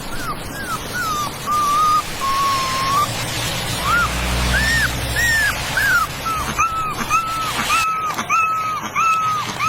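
Puppies whining and whimpering: a run of short, high, arching cries that come faster in the second half, about two a second, over a steady hiss.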